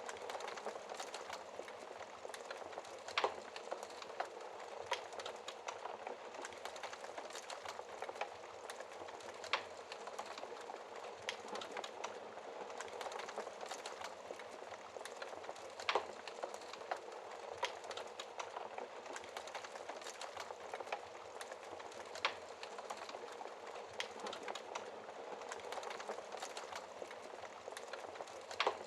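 Wood fire burning in a fireplace: a steady soft crackle and hiss of burning logs, with a few sharper, louder pops every several seconds.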